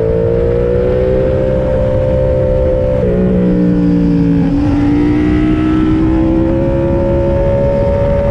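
Yamaha MT-07 parallel-twin motorcycle engine under way, its note climbing slowly as it pulls. About three and four and a half seconds in the note breaks and drops briefly, as with gear changes, then climbs again.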